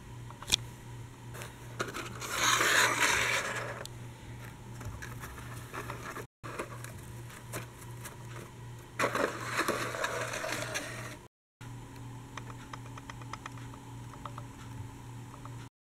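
Plastic toy vehicle being handled and moved over a hard surface: scattered light clicks and scrapes, with two longer scraping rushes a few seconds in and again about halfway through, over a steady low hum.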